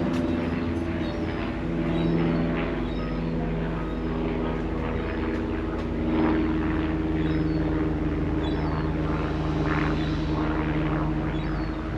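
A steady, humming engine drone with several pitched tones that shift slightly, with short high bird chirps over it.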